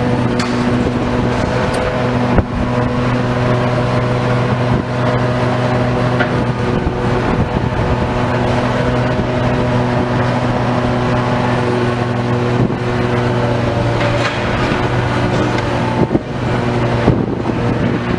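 Heavy demolition machinery's engine running steadily at a constant pitch, with a few sharp knocks and crunches of material, the loudest about two and a half seconds in and near the end.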